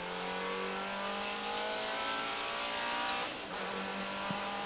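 Ferrari 360 Challenge's V8 engine under hard acceleration on a tarmac rally stage, its pitch climbing steadily through a gear. A little over three seconds in there is a brief dip at a gear change, then the pitch climbs again.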